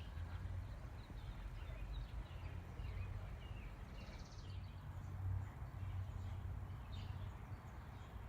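Outdoor ambience: a steady low rumble with scattered faint bird chirps and a short trill about four seconds in.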